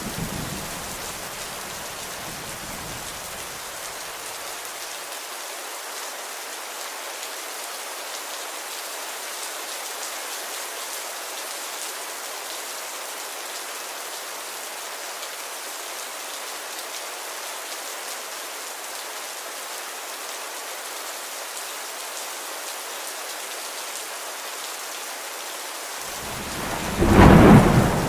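Steady rain hiss with thunder: a low rumble at the start dies away over the first few seconds, and a louder, sharper thunderclap breaks in near the end.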